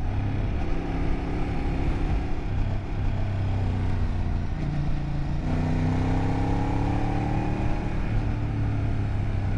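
Motorcycle engine running under way as the bike is ridden. The engine note changes a few times, and from about halfway through it climbs steadily in pitch as the bike accelerates.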